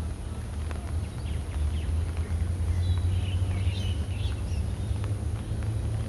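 Small birds chirping: a brief cluster of quick high calls about three to four seconds in, over a steady low outdoor rumble.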